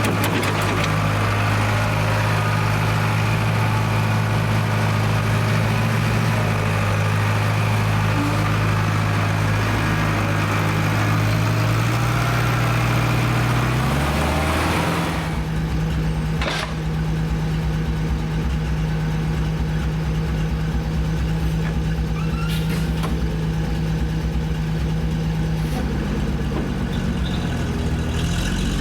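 International Harvester 270A backhoe's diesel engine running on its freshly rebuilt injection pump. About halfway through it drops back to a steadier, quieter run.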